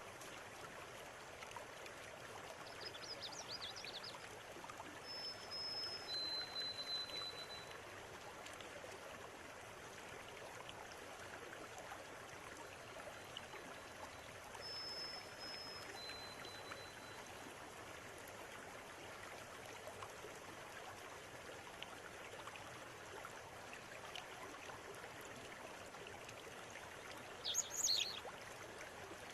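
River water running steadily, with birds calling over it: a short flurry of chirps a few seconds in, a two-note whistle (a higher held note, then a lower one that falls slightly) given twice about ten seconds apart, and a quick burst of chirps near the end.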